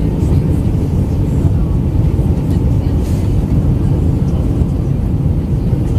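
Airbus A319-112 cabin noise in descent: a steady low roar of airflow and the CFM56 engines, with a faint steady hum over it.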